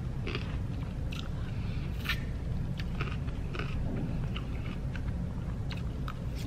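A person chewing and eating from a paper takeout box with a plastic fork: mouth sounds with scattered small clicks and rustles, over a steady low background hum.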